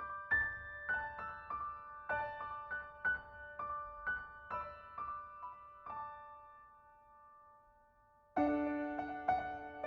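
Background piano music playing a light melody of struck, fading notes. About six seconds in the notes die away to near quiet, and about two seconds later the music starts again, louder.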